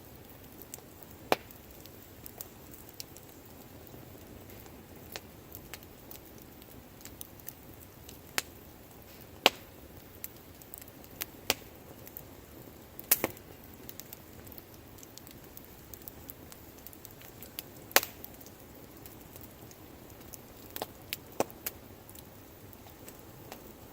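Wood fire burning, with a soft steady hiss and sharp, irregular crackles and pops from the burning wood, the loudest about ten, thirteen and eighteen seconds in.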